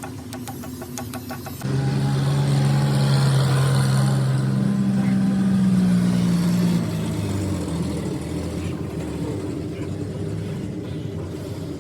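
Engine running steadily, cutting in abruptly about two seconds in, its pitch and level sagging a little after the middle. It is preceded by faint, regular ticking.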